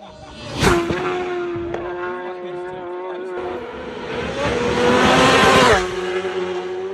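Racing motorcycles passing at high speed: one flashes by about half a second in, its engine note dropping sharply as it goes, and a second, louder one builds up and passes near the end, its pitch falling as it goes by.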